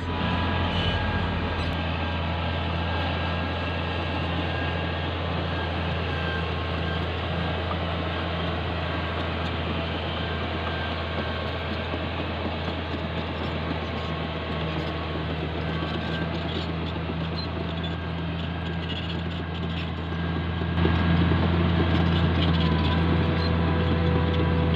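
Caterpillar D6G bulldozer's diesel engine running steadily under load while pushing soil, getting louder about 21 seconds in.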